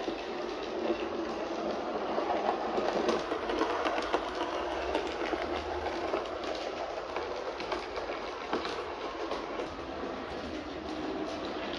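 Model railcar, a Kleinbahn ÖBB 5047, running along the track on a test run after repair: its small electric motor and gearing whir steadily, with light clicks from the wheels on the rails.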